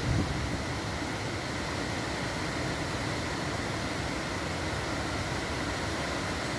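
Waterfall: a steady rushing of falling water, even and unbroken, with a brief low thump right at the start.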